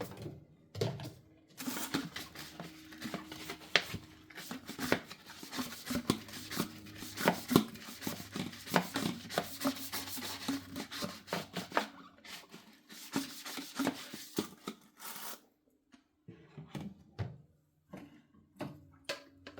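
Hand-washing dishes at a kitchen sink: tap water starts running about two seconds in, with a steady low hum, while dishes clink and knock against each other and the sink. The water stops about fifteen seconds in, leaving a few scattered clinks and knocks.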